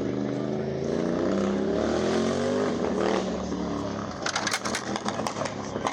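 Motorcycle engine revving, rising in pitch over a couple of seconds as it pulls away, then fading out about four seconds in; scattered clicks and voices follow near the end.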